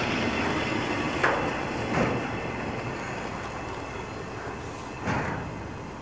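Intermodal freight train of truck trailers on flatcars rolling away on the rails, with a steady rumble and three sharp clanks about a second in, at two seconds and near five seconds. The sound slowly fades as the cars recede.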